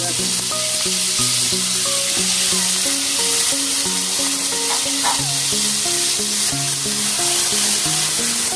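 Chana dal sizzling steadily in hot oil in a nonstick kadhai, just after being added, with a wooden spatula stirring it near the end. Background music with a simple melody plays under it.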